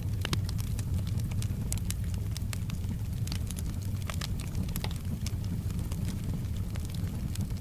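Wood fire crackling, with frequent irregular sharp pops over a steady low rumble and soft rain mixed in.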